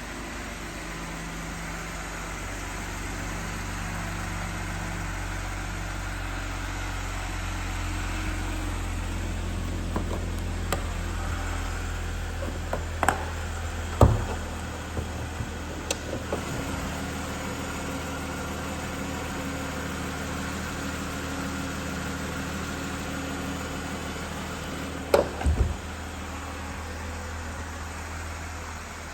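2012 Jeep Wrangler's 3.6-litre V6 idling steadily after a cold start. Several sharp knocks cut in about halfway through and again near the end.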